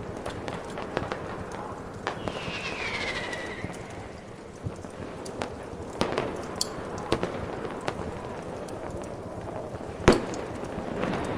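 Fireworks popping and crackling over a steady hiss. A falling whistle comes about two seconds in, and one much louder bang near the end.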